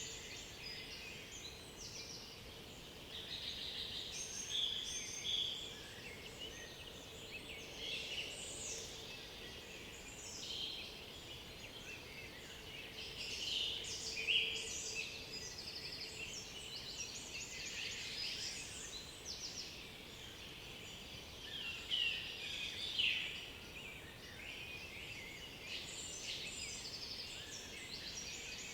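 Several songbirds singing at once in woodland, with overlapping chirps, whistles and trills and a few louder phrases now and then.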